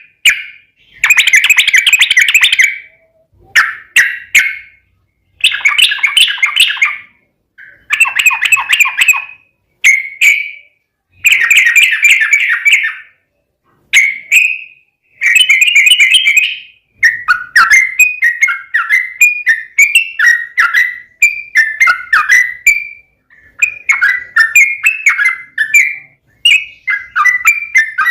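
Trucukan (yellow-vented bulbul) singing loud bubbling phrases of a second or two with short pauses between them. From about halfway through the song runs on as a long unbroken string of quick notes, the long 'ropel' song.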